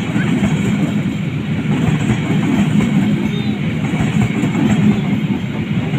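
A train running along the track: a steady low rumble.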